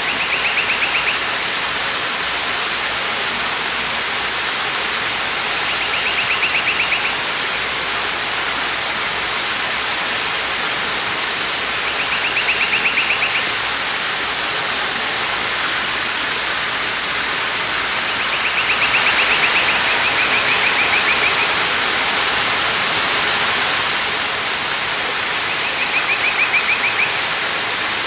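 Waterfall rushing steadily. A short, rapidly pulsing trill sounds over it about every six seconds, five times, the longest about two-thirds of the way through.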